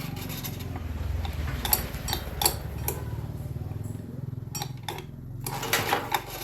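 Sharp metallic ticks and clinks, a few at a time, over a low steady mechanical hum, with a rougher scraping stretch near the end.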